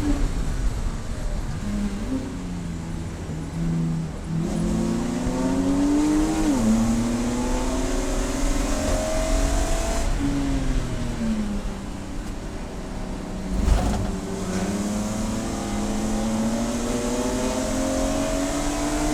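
Race car engine pulling hard with its pitch climbing, dropping sharply at a gear change, then falling away as the car slows and climbing again. There is a brief thump about fourteen seconds in.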